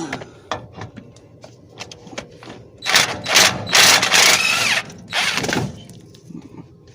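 Impact gun running in three short bursts, the longest nearly two seconds, as it undoes bracket bolts, with light metallic clicks of socket and tools before the bursts.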